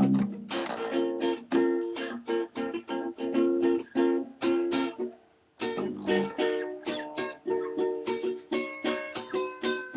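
Nylon-string acoustic guitar (violão) playing rhythmic plucked samba chords, breaking off for about half a second midway and then starting again.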